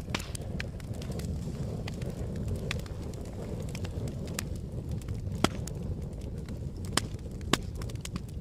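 Campfire burning: a steady low rush of the flames with scattered sharp crackles and pops of burning wood, three louder pops in the second half.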